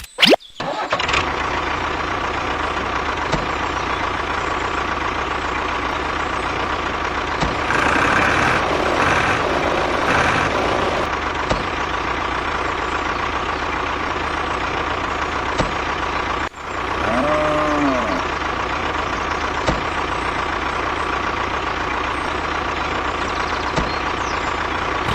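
Tractor engine running steadily, with a brief cut-out about sixteen seconds in.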